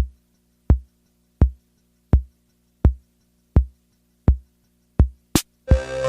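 Electronic music intro: a lone drum-machine kick beats about once every 0.7 seconds over a faint low drone. Near the end a sharp, bright hit leads into the full track, with sustained synth chords coming in.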